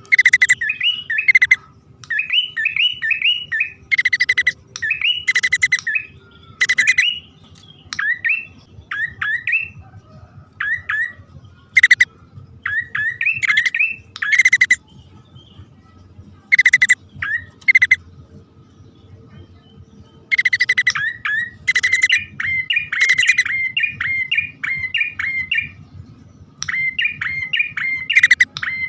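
Prinias (prenjak) calling, the male and female lure call: bouts of quick rising chirps alternate with short harsh, buzzy calls, with pauses of a second or two between bouts.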